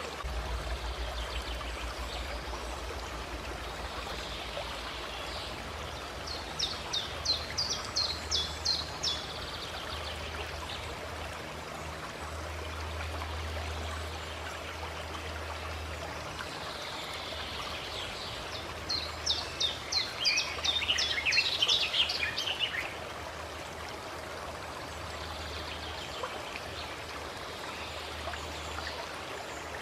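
A stream running steadily, with a songbird singing two quick series of high, rapidly repeated notes, one about seven seconds in and another around twenty seconds in.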